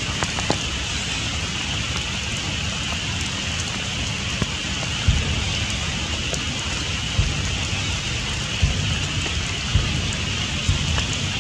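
Steady rain falling through forest foliage, an even hiss with a few dull knocks of heavier drops scattered through it.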